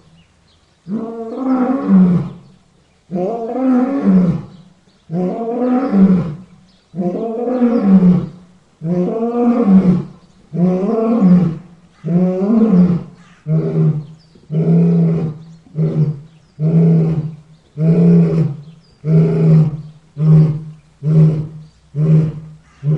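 A lion's roaring bout. Long, deep roars come about two seconds apart, then from about halfway through they turn into shorter roars that come faster and faster, about one a second and closer toward the end.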